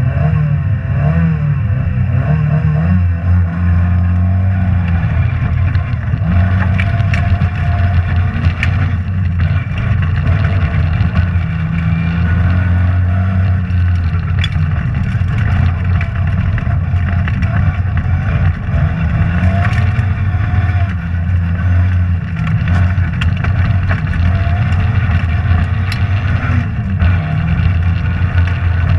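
Rally car engine heard from inside the cabin during a stage run, its pitch rising and falling as the driver accelerates and lifts, under a heavy low drone. Sharp knocks and clicks come through every few seconds.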